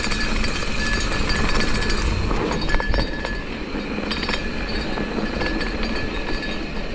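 Mountain bike with a SRAM GX Eagle 12-speed drivetrain being ridden: steady trail and wind noise with the chain and drivetrain clinking, and a few sharper clicks about two to three seconds in.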